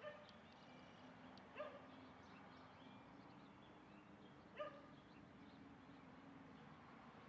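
Three short, faint animal calls: one at the start, one about a second and a half in, and one about three seconds later, over a steady faint low hum.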